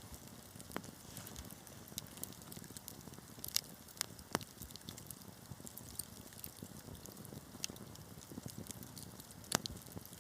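Wood fire crackling, with irregular sharp pops and snaps over a low steady rumble of burning; a cluster of louder pops about four seconds in and another loud pop near the end.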